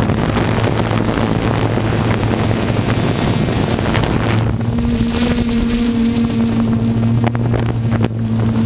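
Pulling truck's engine running hard at full throttle during a pull, loud and steady.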